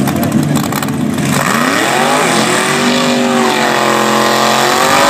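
Hot rod drag car's engine with a lumpy, rough idle, then about a second in it is revved up hard and held at high revs, rising and falling, during a tyre-smoking burnout at the start line.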